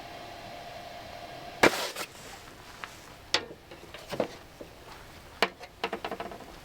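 A steady hum cuts off with a loud sharp knock, followed by several scattered sharp clicks and knocks.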